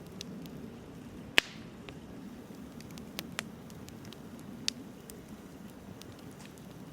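Wood bonfire burning: a steady low rush of flame with scattered sharp crackles and pops, the loudest about a second and a half in.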